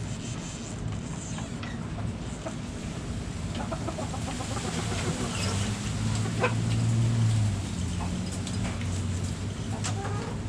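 Backyard hens clucking in short, quick runs, with a few sharper calls. A low steady rumble underneath swells about six to seven seconds in.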